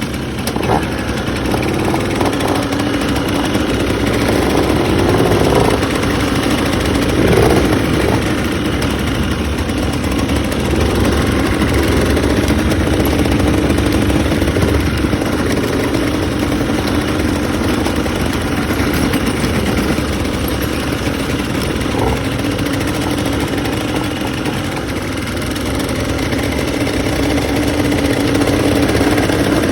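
ATV (quad bike) engine running steadily throughout.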